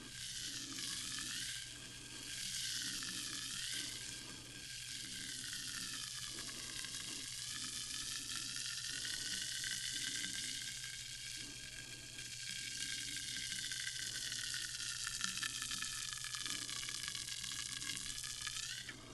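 Sparkling water fizzing: a steady crackling hiss of bursting bubbles, with faint ringing tones that slowly drift up and down in pitch.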